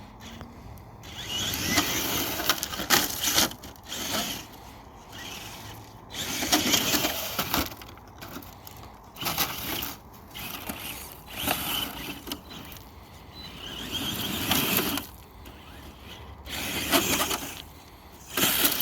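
Brushless electric motor of a Traxxas TRX-4 Sport RC truck, a Castle 3800 kV, whining in repeated short bursts of throttle as the truck climbs over sand, with the tyres scrabbling in the sand between the bursts.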